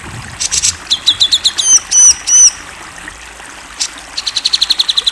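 Grey-cheeked bulbul (cucak jenggot) singing: a short harsh chatter, a quick run of sharp high notes, then three loud hooked whistles, and after a pause a rapid even trill of about ten notes a second near the end. A steady hiss like trickling water runs underneath.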